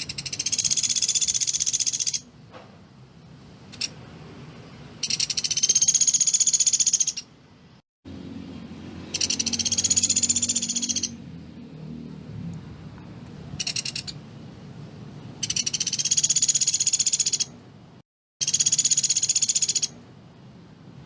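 Pelatuk beras bird calling in a string of fast, high-pitched rattling trills, each about two seconds long with a slightly arched pitch and a short pause between them; five long trills and one short one. This rapid 'tembakan rapat' call is the call used to train other songbirds.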